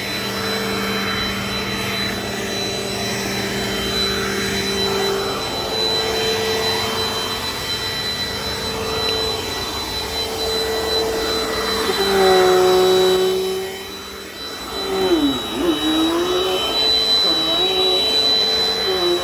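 Dirt Devil Dynamite Plus vacuum cleaner running, a steady motor hum with a high whine. About twelve seconds in the motor note shifts, the sound drops briefly, then it comes back with a wavering pitch as the vacuum is worked over the floor.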